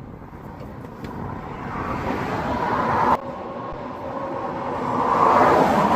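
Motor vehicle noise that swells louder, cuts off suddenly about three seconds in, then swells again to its loudest near the end.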